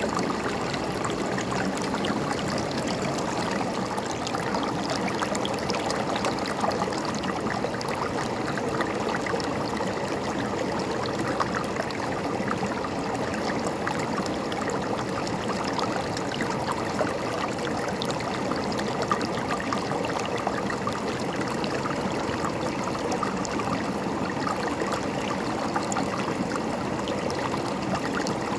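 A shallow river running over stones: a steady rush of water with constant small splashes and gurgles.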